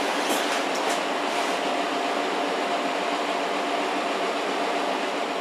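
A steady mechanical hum and hiss with a faint constant tone, fading away near the end.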